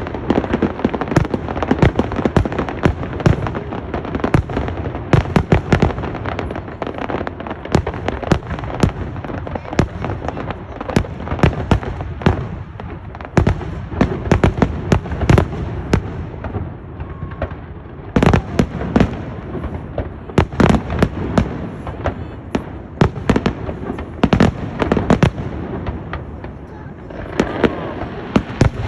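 Fireworks display: aerial shells bursting in rapid, irregular succession, with sharp bangs and crackling overlapping throughout. There is a brief lull a little past halfway, then the bursts come thick again.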